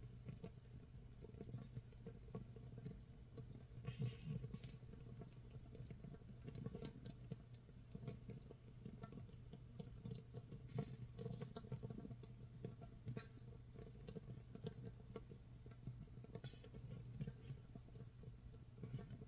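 Makgeolli starter mash fermenting in a crock, about a day in: gas bubbles popping and crackling faintly and irregularly, a soft patter like rain or toasting rice crust.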